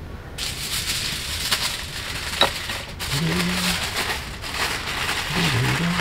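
Wood campfire crackling and snapping, with one sharp snap about two and a half seconds in.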